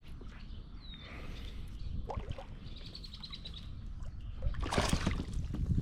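Small birds chirping: a short falling call about a second in and a quick run of chirps around three seconds, over a steady low rumble of wind and water. Near the end comes a brief, louder rush of noise, a splash or handling of the kayak.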